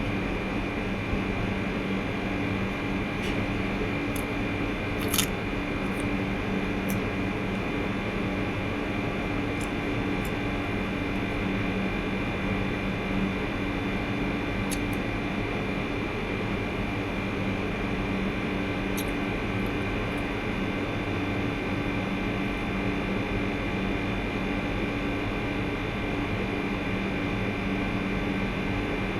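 Steady mechanical hum, like a fan or appliance running, with a few faint clicks.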